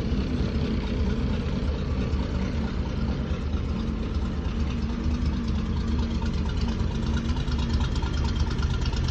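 Toyota FJ43 Land Cruiser's inline-six petrol engine idling steadily, still cold with the choke off, so the idle sits a little low.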